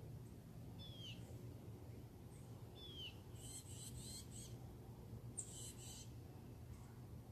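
Birds calling: two short whistles that slide downward, about a second and three seconds in, then two harsh, scratchy calls, over a steady low hum.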